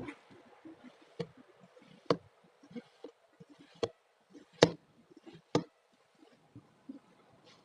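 Kinetic sand being worked with a tool: soft crumbling and crunching, broken by about six sharp, irregularly spaced clicks, the loudest a little past halfway.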